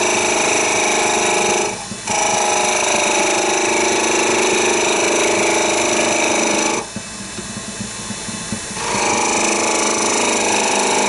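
Turning tool cutting into a spinning wooden chess piece on a wood lathe: a steady, loud scraping whine with several ringing tones. It breaks off briefly about two seconds in and again for about two seconds near the middle as the tool comes away, then resumes.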